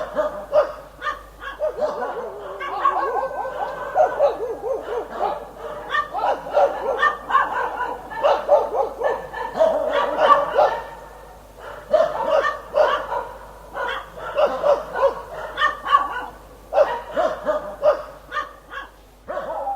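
Dog barking over and over in quick, dense runs, with brief lulls about halfway through.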